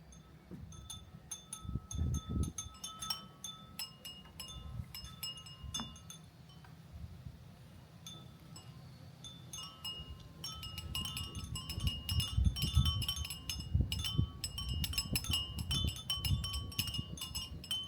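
Many Japanese furin wind chimes tinkling in the breeze: scattered strikes at first, thickening into a dense jangle from about ten seconds in. A gusty low rumble of wind on the microphone runs underneath.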